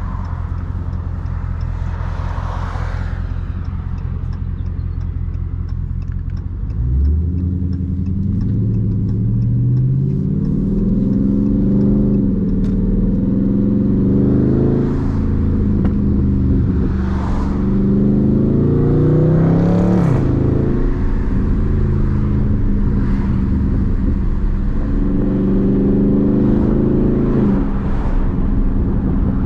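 Dodge Charger Daytona 392's 6.4-litre HEMI V8 running at a steady cruise. About seven seconds in the throttle opens: the engine note climbs and drops back several times as the automatic shifts up. It settles to a steadier note for the last third.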